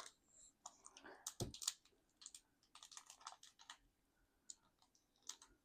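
Faint, scattered small clicks and taps of tiny plastic miniature pieces being handled, in irregular clusters that thin out toward the end.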